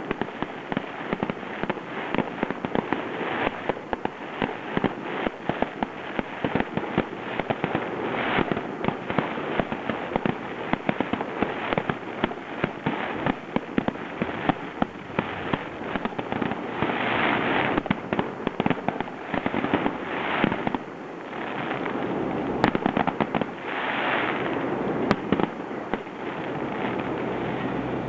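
Aerial fireworks going off in a dense run of rapid crackling bursts, with swells of hissing noise a few times in the second half.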